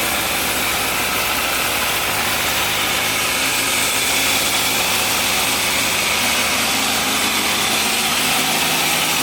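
Yamaha Fazer FZS600's inline four-cylinder engine running steadily, held at one speed with no revving.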